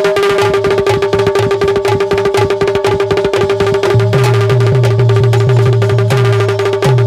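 Instrumental interlude of Bundeli folk music: fast, dense hand-drum strokes over a held drone note, with a repeating figure of deep bass notes, some bending down in pitch as they start.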